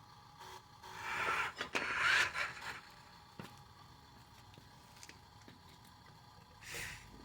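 Scraping and rustling noises, loudest from about one to three seconds in, with another short scrape near the end.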